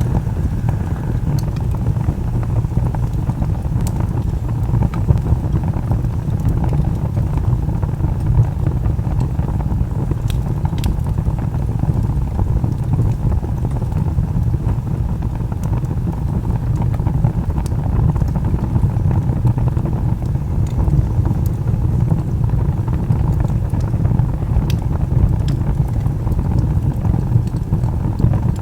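Wood fire burning: a steady low rumble with scattered sharp crackles and pops from the burning logs.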